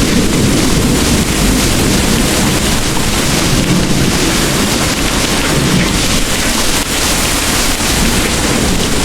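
Heavy rain pouring steadily, with a low rumble of distant thunder underneath.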